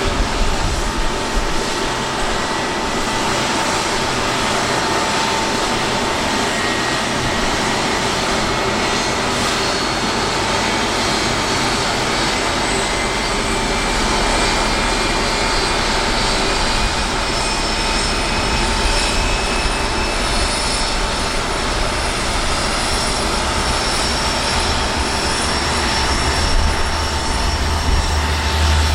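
Boeing C-17 Globemaster III's Pratt & Whitney F117 turbofan engines running on the ground: a steady rushing noise under a held whine, with faint high tones slowly rising in pitch.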